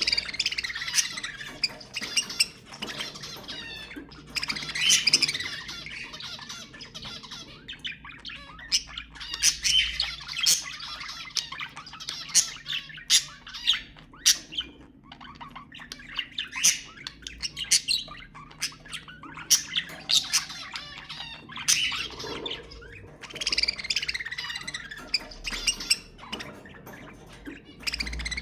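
Budgerigars chattering and warbling continuously, with many short, sharp squawks and chirps.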